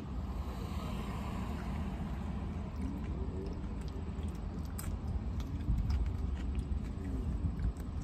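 Tortilla chips crunching and being chewed with guacamole, with scattered sharp crackles, over a steady low rumble in a car's cabin.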